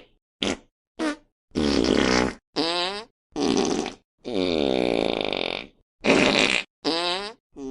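A run of about eight fart sound effects, one after another with short silent gaps between them. The first two are very short pops. A long, drawn-out one of about a second and a half comes in the middle.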